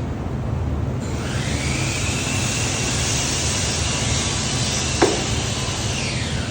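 Spray gun hissing as finish is sprayed: the hiss starts about a second in and stops near the end, over a steady low hum. A single click comes about five seconds in.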